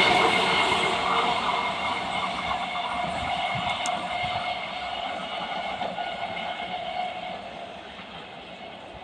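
EMU electric local train running away down the track, its wheel and running noise fading steadily as it recedes.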